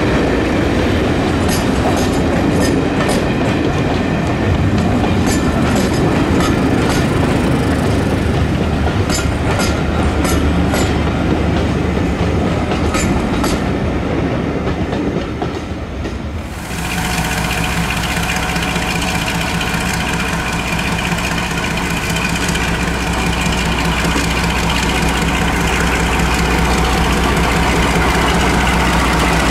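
Passenger coaches of a train rolling past, wheels clicking in twos and threes over the rail joints, dying away after about fifteen seconds. From about sixteen seconds in, the twin Maybach diesel engines of Class 42 Warship D821 'Greyhound' run steadily close by, a low hum under a higher steady tone.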